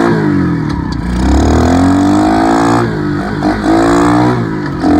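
Dirt bike engine revving as the bike accelerates: its pitch climbs, drops off sharply about three seconds in, climbs again and drops off once more near the end.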